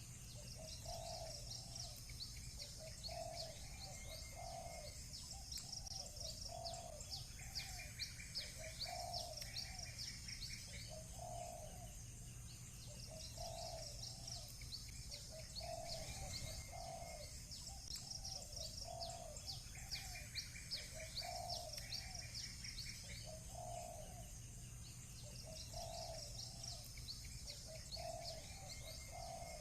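Doves cooing over and over, low notes every second or two, while a small songbird repeats rapid chirping phrases a few seconds long. A steady low hum runs underneath.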